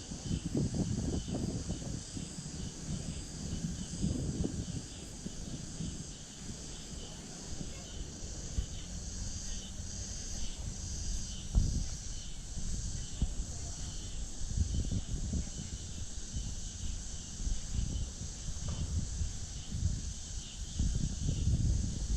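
Insects chirring steadily in high-pitched bands, over a low, uneven rumble.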